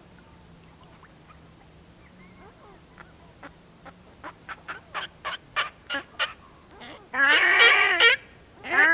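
Whooper swans calling. About three seconds in, a run of short calls starts and grows louder and quicker, then breaks into loud, drawn-out trumpeting near the end.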